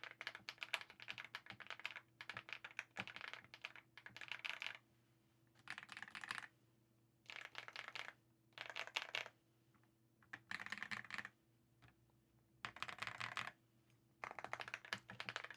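Mechanical keyboard with Leobog Star Vector switches in an aluminum case being typed on, a crisp, poppy clacking in bursts of about a second, with short pauses between. A faint steady hum sits underneath.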